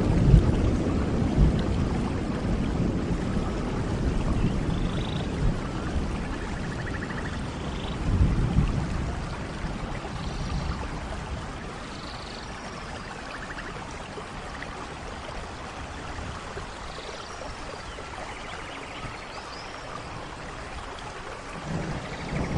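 Steady rain falling, with low thunder rumbles at the start and again about 8 seconds in, quieter through the middle, and building again near the end. Faint short high chirps sound now and then over the rain.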